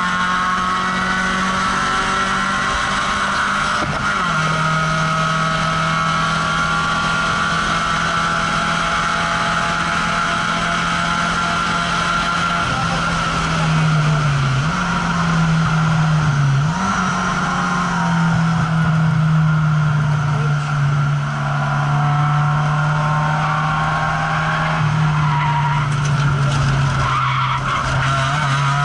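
A car's engine heard from inside the cabin at track speed, a loud steady drone with road and wind noise. The note steps down about four seconds in, jumps up and down briefly around the middle, then slowly falls toward the end as a corner comes up.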